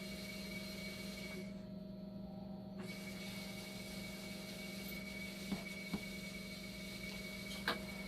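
Dialysis machine running with a steady hum and a faint steady whine, free of the loud noise its failing power supply made, now that the power supply has been replaced. Three light clicks come in the second half.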